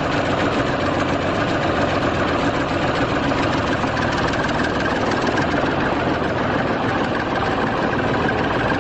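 Tractor engine running steadily at idle, an even rumble with no change in speed.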